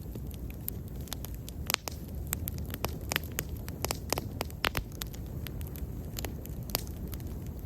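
Wood fire burning, with irregular sharp crackles and pops, several a second, over a steady low rumble of the flames.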